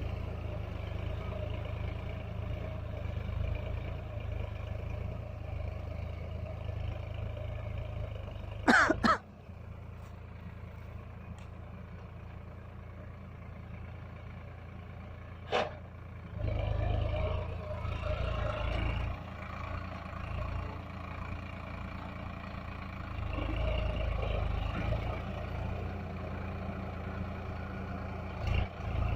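Solis tractor's diesel engine running with a steady low rumble. It goes quieter about a third of the way in, then picks up again, louder and uneven, a little past halfway. Just before it goes quiet there is a brief loud, high, wavering sound, and a sharp click comes a few seconds later.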